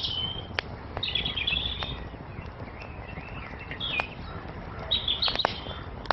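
Wood fire crackling, with sharp single pops every second or so over a low steady rush, while songbirds chirp in short phrases several times.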